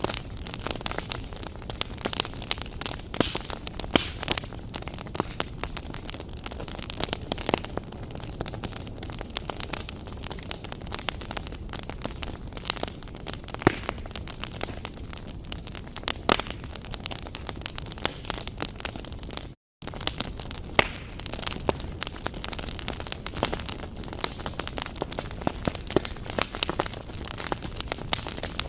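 Fire burning in a fireplace, crackling steadily with frequent irregular sharp pops. The sound cuts out for a moment about two-thirds of the way through.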